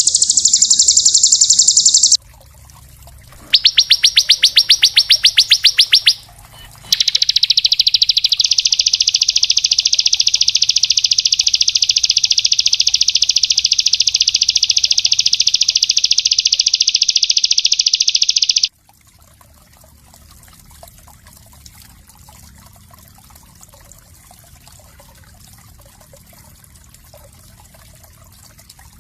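A small songbird sings rapid, high-pitched trills in three bursts: a dense trill at the start, then a quick run of repeated notes, then a long unbroken trill lasting about twelve seconds that stops abruptly. For the last ten seconds only a faint trickle of water remains.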